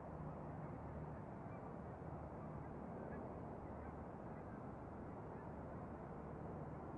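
Faint, steady low rumble with a hum, the sound of distant aircraft engines.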